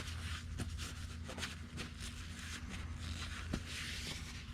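Light scattered clicks and rustling of hands handling parts, most likely a new spin-on oil filter being brought up and threaded onto its mount, over a steady low hum.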